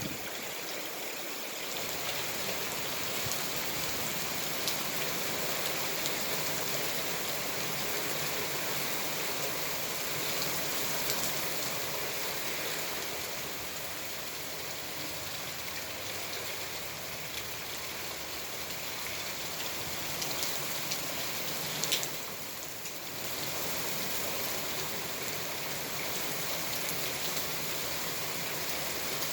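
Heavy rain falling steadily, a dense even hiss of drops, with one sharp knock about three quarters of the way through.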